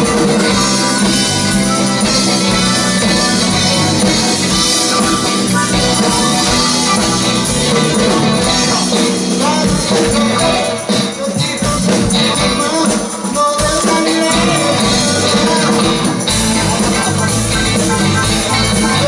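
A band playing rock music with a steady beat and shaken percussion, with brief dips in loudness around the middle.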